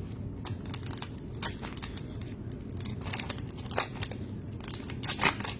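Trading cards being handled and slid against one another, making a string of short, sharp swishes and flicks, with a cluster of them near the end.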